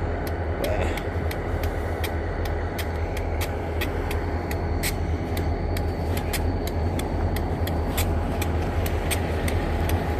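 Vehicle engine idling: a steady low rumble, with frequent sharp ticks over it.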